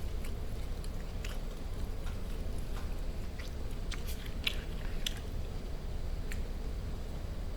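A person chewing barbecued meat close to the microphone, with scattered sharp wet mouth clicks, about eight in all, over a steady low hum.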